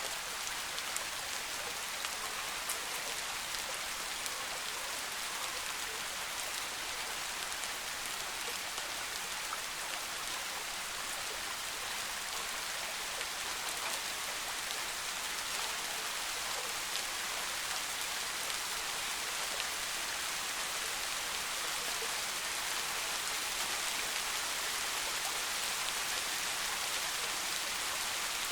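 Steady soft rain falling on forest foliage: an even hiss of many drops with faint individual drip ticks.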